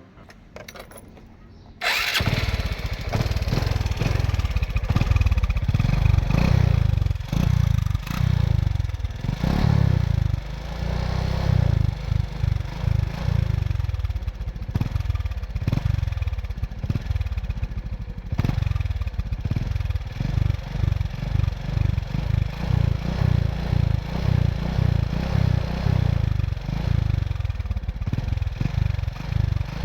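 An engine running with a low, uneven chugging rumble, which cuts in suddenly about two seconds in.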